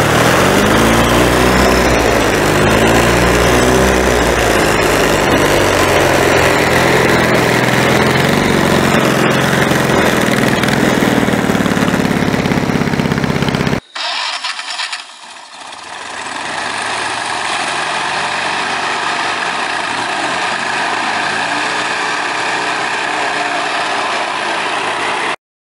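A car engine fitted into a scooter, running loud, its pitch rising and falling as it is revved a few times in the first few seconds, then held steady. About halfway through the sound cuts off abruptly, and after a short dip the engine is heard running steadily again as the scooter is ridden.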